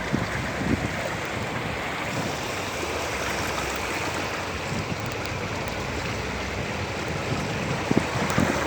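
Floodwater rushing in a steady roar, with a few low thumps of wind on the microphone.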